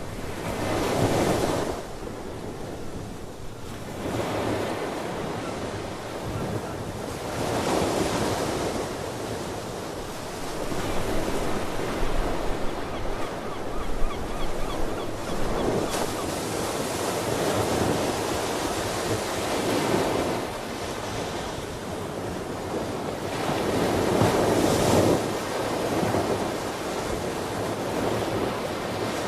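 Ocean waves breaking and washing on the shore, swelling and easing in repeated surges every few seconds over a constant rushing background.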